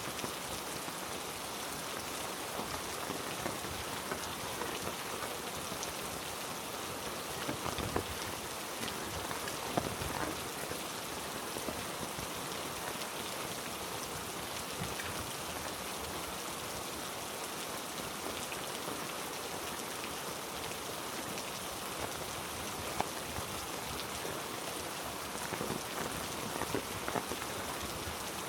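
Heavy rain falling steadily, with scattered louder drips and drops landing close by.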